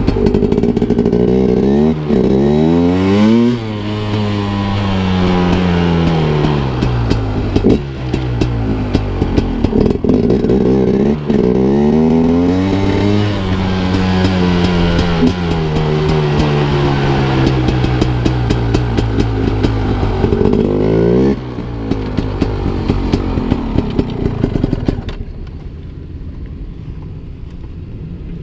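2017 KTM Freeride 250 R two-stroke single-cylinder engine revving up and down, its pitch climbing and falling several times. About 25 seconds in it drops to a quieter, lower running.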